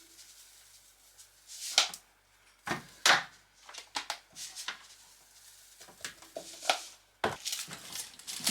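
Knife chopping on a cutting board: a handful of separate knocks at irregular intervals.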